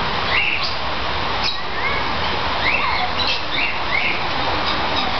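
Caged birds giving short, scattered chirps over a steady background of noise.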